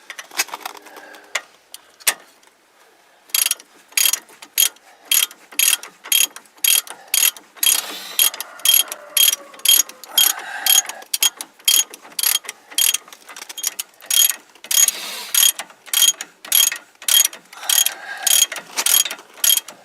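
Ratchet wrench worked in quick back-and-forth strokes, about two a second, each stroke a short burst of pawl clicks. It starts about three seconds in, while a wheel-bearing assembly on a Ford truck is being tightened up.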